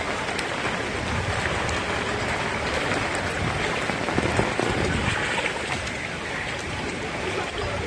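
Steady hiss of water falling and splashing on hard surfaces, at an even level throughout.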